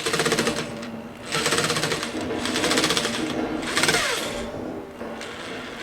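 Power driver running with a rapid, even rattle as it drives a deck screw into steel plating: a short burst, then a longer run from about a second and a half in until near the end.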